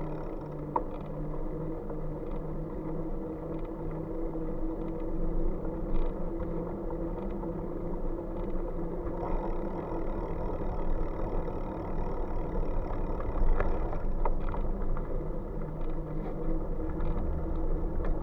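Steady riding noise from the bike: a low rumble with a steady hum and a few faint ticks.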